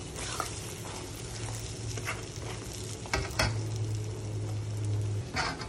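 Turmeric-coated slices of boiled lung sizzling in hot oil in a steel wok. A metal slotted spatula scrapes and clacks against the pan several times as they are stirred, loudest a little past the middle.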